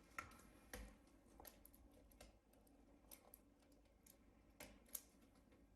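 Near silence broken by faint, scattered clicks and taps as small parts are handled inside an open laptop; four of them stand out a little.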